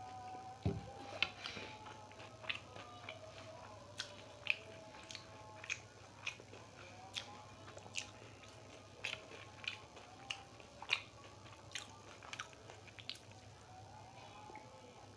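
Close-miked chewing of fried samosas: crisp, irregular crunches and mouth sounds, about one or two a second.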